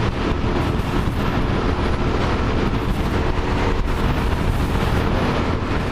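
Strong gusty crosswind buffeting a motorcycle rider's helmet microphone at highway speed, a loud steady rush and rumble, with the bike's engine running underneath.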